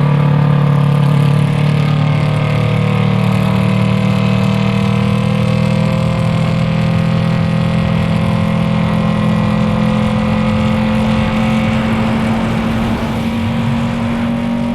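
Yamaha MT-03's parallel-twin engine through an aftermarket Arashi exhaust, running under steady throttle while riding, its revs climbing slowly and evenly, easing slightly near the end.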